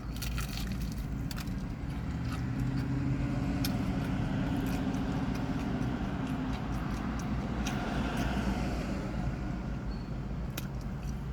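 Steady low hum like an idling car, with a few light clicks scattered through it.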